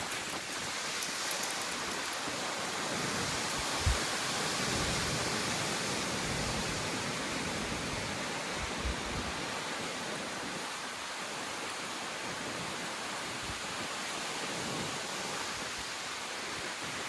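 Steady rush of wind-driven rain in a windstorm, with a couple of brief low thumps about four and nine seconds in.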